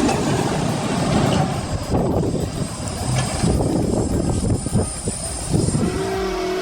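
A heavy vehicle running: a loud, rough, noisy sound with uneven surges.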